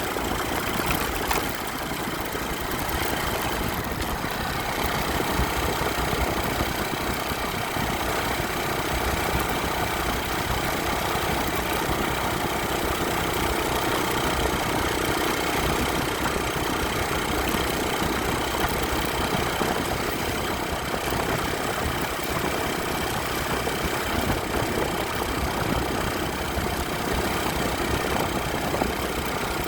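Motorcycle engine running steadily, with an even rush of noise over it.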